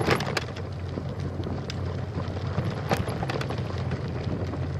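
Steady low rumble of riding along the trail, with wind on the microphone and scattered sharp clicks, the loudest at the start and about three seconds in.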